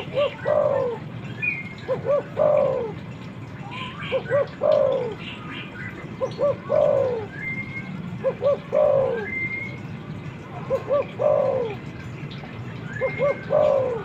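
Spotted dove (tekukur) cooing: the same phrase repeated about every two seconds, six times, each two short notes and then a longer falling coo. Faint higher chirps of small birds come in between.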